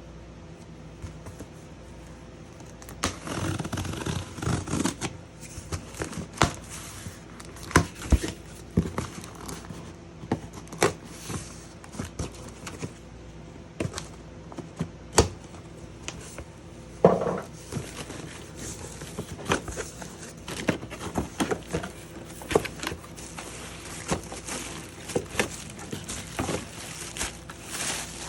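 Handling of a new handheld vacuum cleaner and its packaging: irregular plastic clicks, knocks and scrapes, with bouts of rustling and crinkling.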